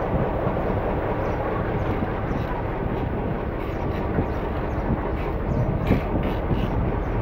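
Diesel locomotive and its train rolling past close by, a steady rumble of engine and wheels on the rails.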